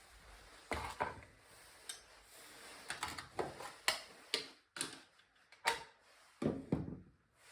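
Irregular clicks and knocks of kitchen items being handled, a dozen or so sharp taps spread unevenly, with a couple of heavier knocks about a second in and near the end.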